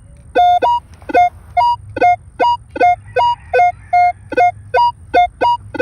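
Minelab Equinox 600 metal detector beeping as the coil is swept back and forth over a target, short electronic tones about two to three a second that switch between a lower and a higher pitch: a jumpy signal reading around 31.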